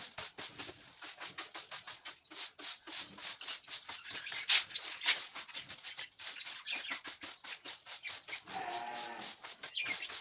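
A dried loofah gourd being rubbed and peeled by hand: quick dry scratching and crackling strokes, several a second.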